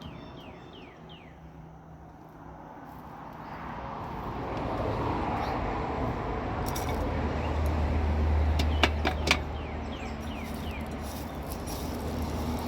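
Outdoor birds chirping in runs of short falling notes, at the start and again near the end. A low rumble swells through the middle, with a few sharp clicks about nine seconds in.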